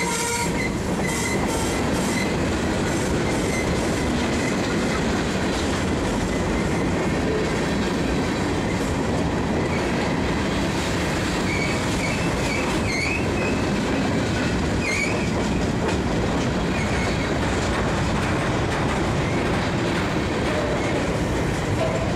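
Covered hopper cars of a freight train rolling past close by: a steady, dense rumble of steel wheels on rail. Brief, wavering wheel squeals come through between about ten and sixteen seconds in, as the cars take the curve.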